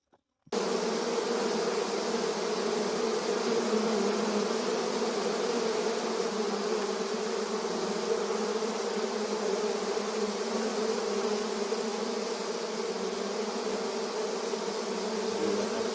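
A large mass of honeybees buzzing: a dense, steady hum that starts abruptly about half a second in and holds for the rest.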